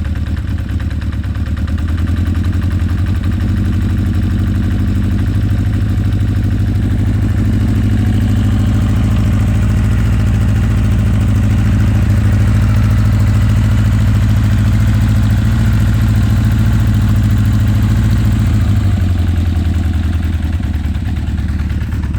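Honda CB900 Custom's air-cooled inline-four engine idling as it warms up after a cold start, a steady note. The idle rises slightly a few seconds in and settles lower again near the end.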